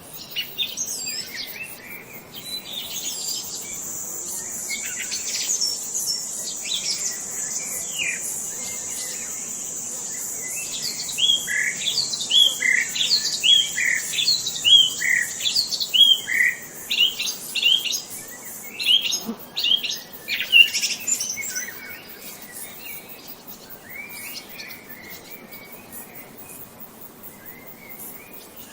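Wild birds chirping and singing, with a run of repeated down-slurred notes about twice a second in the middle. A steady high-pitched buzz runs through the first two-thirds, and the calls thin out to scattered chirps near the end.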